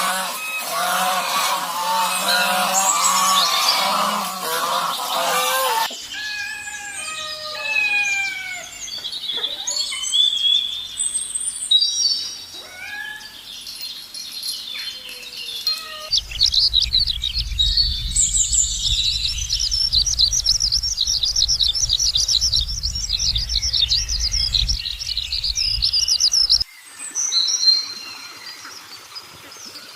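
Birds calling in several successive clips: a dense chorus of chirps, then separate whistled calls that rise and fall, then a long, rapid, high trill over a low rumble that cuts off suddenly.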